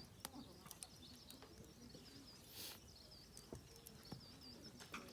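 Faint birdsong: a bird repeating a short high chirp over and over, with a few light clicks.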